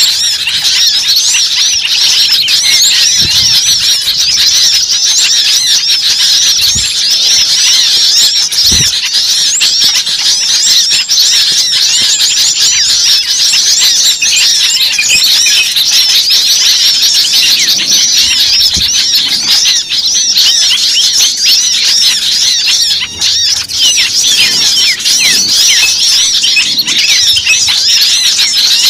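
Bird-lure recording: a dense, noisy chorus of many small birds giving rapid, high-pitched chirps and twitters that overlap without a break, the agitated calling used to draw small birds in.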